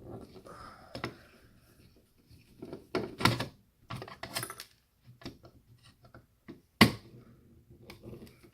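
Irregular clicks and clatter of small plastic and metal parts as a computer disc drive is pried apart to get its circuit board off, with one loud sharp snap about seven seconds in.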